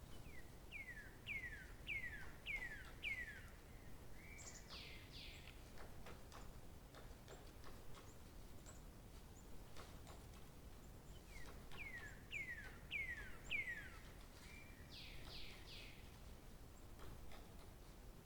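A songbird singing the same phrase twice, about ten seconds apart: a run of about five quick downward-sliding whistles, then a brief held note and three higher downward sweeps. A faint steady background of outdoor noise runs underneath.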